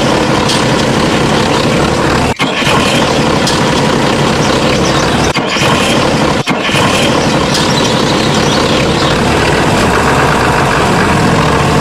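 Small motor running steadily, with brief breaks about two and a half, five and a half and six and a half seconds in.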